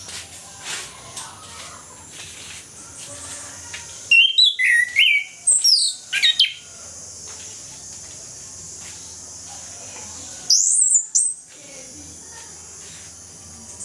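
Chestnut-capped thrush (anis kembang) singing: two bursts of quick, sweeping whistled phrases a few seconds apart, over a steady high hiss.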